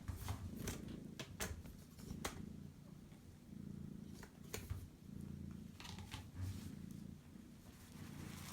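Mother cat purring, a low rumble that swells and fades in rounds of about a second, with a few light clicks and rustles of handling over it.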